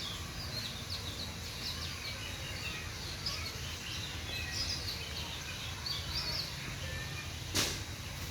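Many small birds chirping, a busy run of short, overlapping chirps, over a steady low rumble. A single sharp click near the end is the loudest sound.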